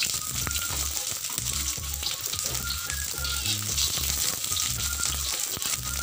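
Sliced onions sizzling as they fry in a hot wok, with a spatula scraping and tapping the pan as they are stirred.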